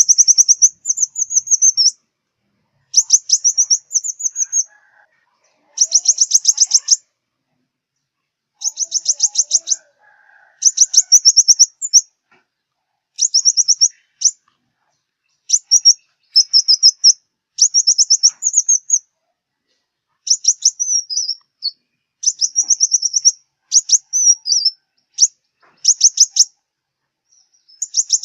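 Sunbird song, of the kind sold in Vietnam as the southern 'five-colour' sunbird: fast runs of high, thin chirps, each run lasting about a second, repeated over and over with short pauses between.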